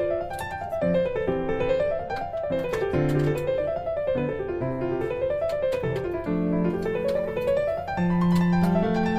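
Background piano music: quick rising and falling runs of notes over held low notes.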